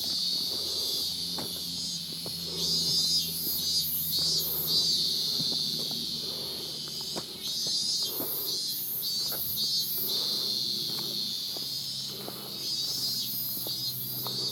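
Cicadas shrilling in the trees in a pulsing, rhythmic chorus, with scattered clicks of footsteps on the trail and the clatter of the camera.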